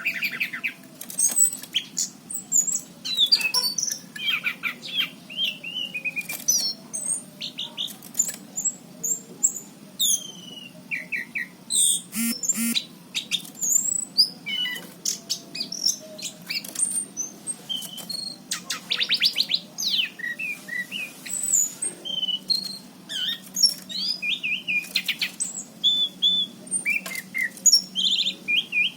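Anis cendana, a form of orange-headed thrush, singing a continuous, varied song of short whistles, chirps and rapid trills.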